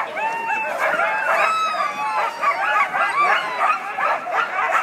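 Many harnessed sled dogs barking and yipping at once in a continuous clamour of overlapping high yelps that rise and fall. This is the excited noise of a team that is hitched up and ready to run.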